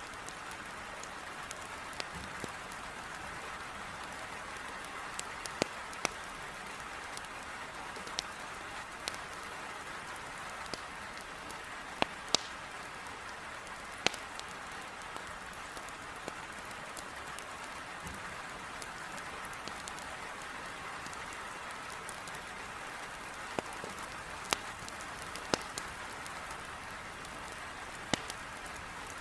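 Heavy rain falling steadily against a window, with a wood fire in a fireplace crackling over it in sharp, irregular pops every second or few.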